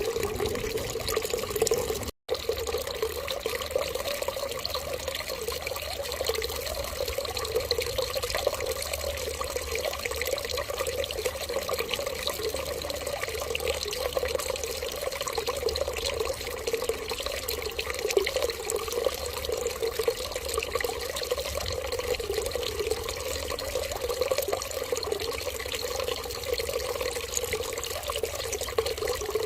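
Water running steadily in an even stream, like a tap left running. The sound drops out completely for an instant about two seconds in, then carries on unchanged.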